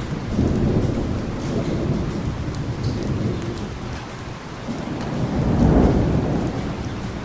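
Steady heavy rain with thunder rumbling twice: one rumble starting just after the beginning and a louder one swelling near the end.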